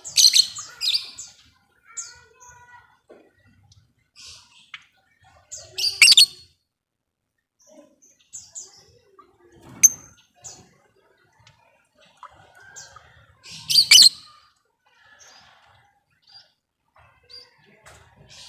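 Lovebird calling in short, shrill, chattering bursts. The loudest come about a second in, around six seconds and around fourteen seconds, with softer scattered chirps between.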